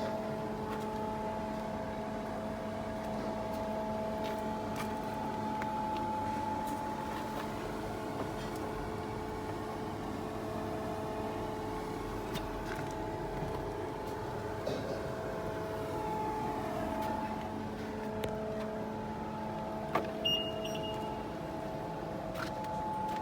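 Cabin noise inside a moving diesel BMW X5: a steady drone of road and engine noise with a low hum. A few small clicks, the sharpest about twenty seconds in.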